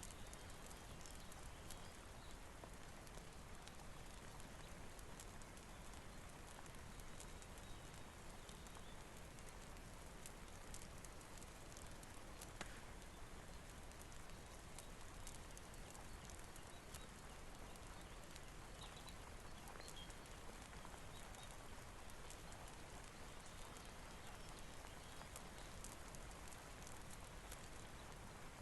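Faint, steady rain hiss with scattered small crackles and pops from a wood fire in a fireplace.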